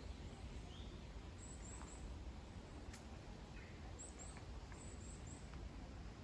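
Small songbirds giving short, very high chirps in quick runs of two or three, a few times over a few seconds, above a faint steady low rumble of outdoor background noise.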